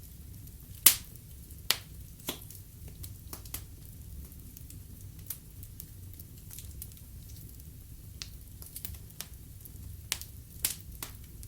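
Wood fire burning in a fireplace: irregular sharp crackles and pops from the burning logs over a steady low rumble of the flames. The loudest pop comes about a second in, with another cluster of pops near the end.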